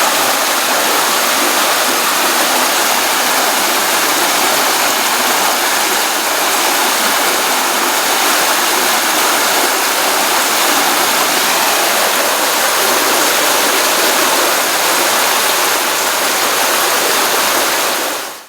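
Pond stream running water after a rainstorm: a steady, continuous rushing of flowing water, fading out in the last half second.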